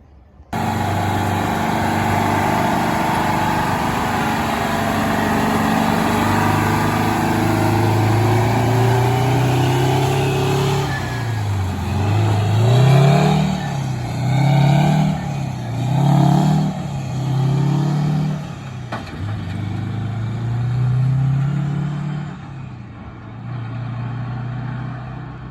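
A truck engine running steadily, then revved up and down about four times in quick succession before settling back and fading near the end.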